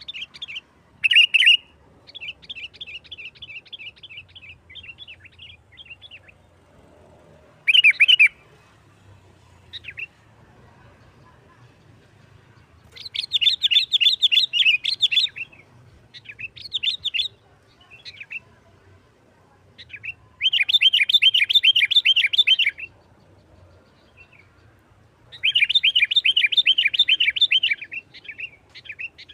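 Sooty-headed bulbul giving its excited, fast chattering call ('nggaruda', combative chatter) in repeated bouts of rapid notes. The longest and loudest bouts fall near the middle and the end.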